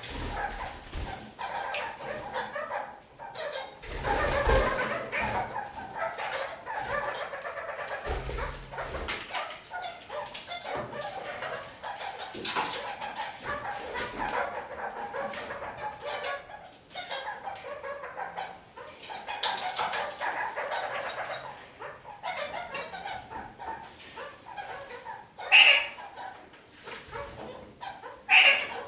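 Red-crowned kakariki (parakeets) chattering continuously, with many small clicks and taps mixed in. Two loud, sharp calls stand out near the end.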